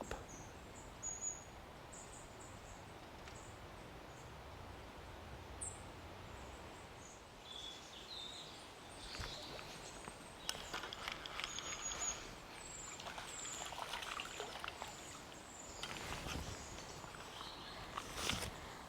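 Small birds chirping over a steady riverbank hiss, with a run of quick, high, repeated chirps in the second half. Scattered rustles and clicks come and go in the second half.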